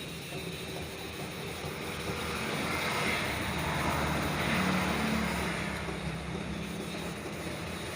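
Sandpaper rubbing over a plastic headlamp lens: a steady abrasive rasp that swells in the middle and eases off, over a low hum.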